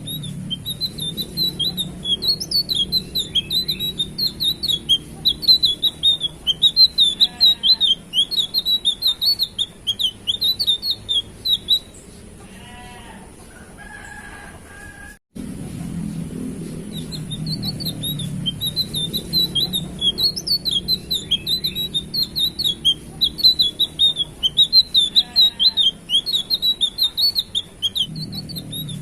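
Small bird, a tledekan biru (a flowerpecker), singing a loud run of rapid, high-pitched chirps that flick up and down, over and over. The song breaks off for a few seconds about midway, where a few softer, lower calls are heard, then starts up again. A steady low hum lies under the song.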